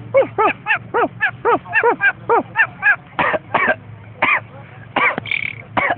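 Pet talking parrot making a quick run of about ten short, arching squawk-like calls, then a few louder, spaced-out calls.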